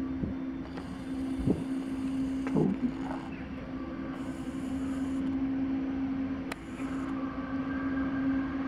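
ET22 electric freight locomotive approaching with a long train of loaded open wagons, giving a steady hum with a couple of short clicks, one about a second and a half in and one past the middle.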